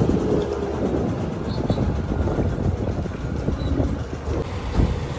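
Boat motor running with a heavy low rumble; a faint steady engine tone drops away about half a second in and returns near the end.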